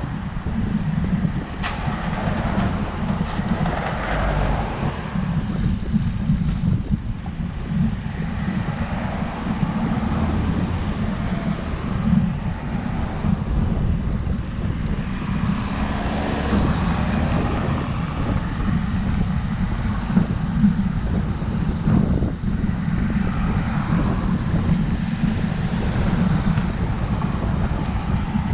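Wind rumbling on the microphone of a road bike rider's camera while cycling along a road, with road traffic noise swelling a few times as vehicles pass.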